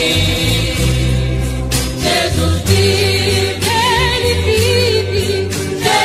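Gospel hymn music: a choir holding long notes without words, some with vibrato, over instrumental accompaniment with a steady bass line.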